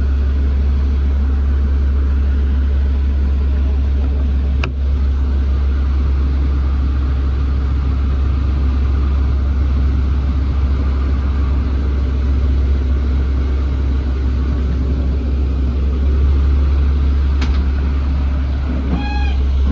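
A 2017 Ford U-Haul truck's engine running with a steady, loud low rumble. Two sharp clicks come partway through.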